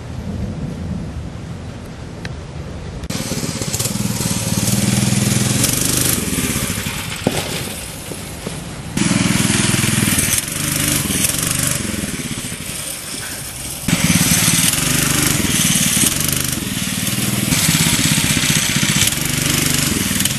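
Mini bike's Powerhorse 208cc single-cylinder OHV engine running under load as the bike is ridden, its pitch rising and falling with the throttle. The sound gets abruptly louder and noisier three times, about 3, 9 and 14 seconds in.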